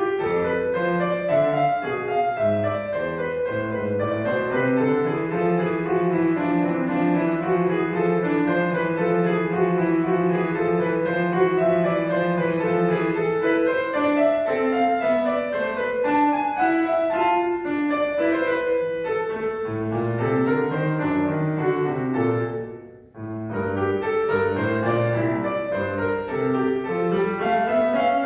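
Solo piano playing classical music: running notes in two interweaving lines over the bass, with one low note held for several seconds. Near the end the playing stops for a moment, then starts again.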